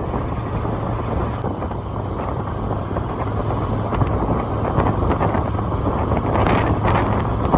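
Wind rushing over the microphone of a moving motorcycle, over the steady low drone of its engine, with a few gustier moments near the end.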